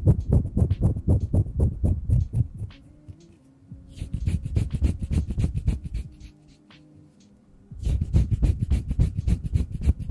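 Hands rubbing and fingers fluttering against the microphone in fast runs of soft pats, about eight a second. They come in three bursts with short pauses between.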